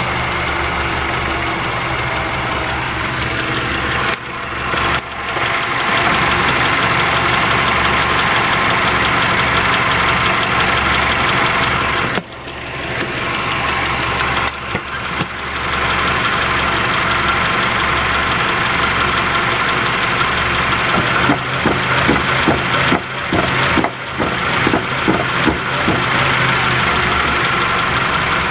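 Car engine running steadily, with uneven dips and jumps in level around 4 to 5 seconds in, about 12 to 15 seconds in, and more often in the last few seconds. This is a recording made to catch a clunking noise from a failing Raceland coilover, but no single clunk stands out clearly.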